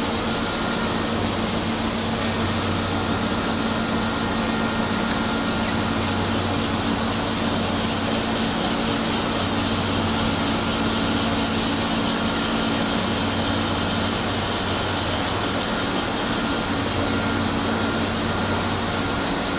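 Steady vehicle noise: a low engine hum under a loud, even hiss, unchanging throughout.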